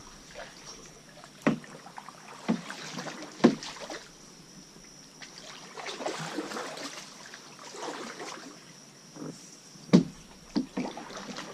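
Canoe paddles stroking through the water, with swishes and splashes and several sharp knocks; the loudest knock comes about ten seconds in.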